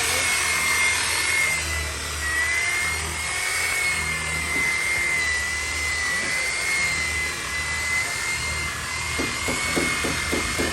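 A power tool's motor running steadily, with a high whine that wavers slightly in pitch over a low hum. Near the end, a quick series of short pulses comes in at about four a second.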